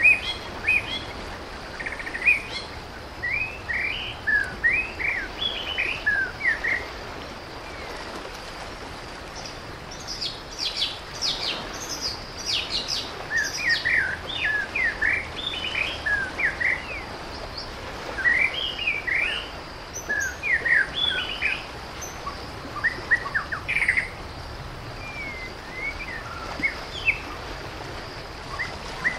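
Small birds chirping and singing in short runs of quick rising and falling notes, with a cluster of higher, sharper calls about ten to thirteen seconds in.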